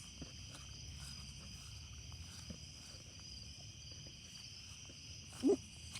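Crickets and other night insects singing in a steady chorus of several high pitches, over a faint low rumble and a few soft clicks. A brief pitched vocal sound comes near the end.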